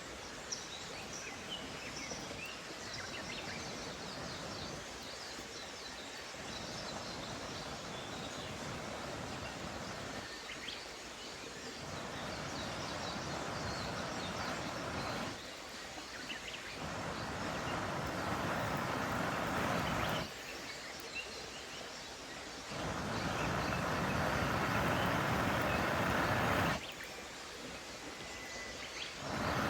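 Small birds chirping over a steady rushing background. Later a louder, even rush of flowing stream water cuts in and out abruptly several times.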